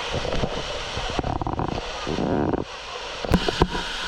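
Waterfall's steady rush, with mic handling or wind rumble on the microphone and two sharp knocks about three and a half seconds in.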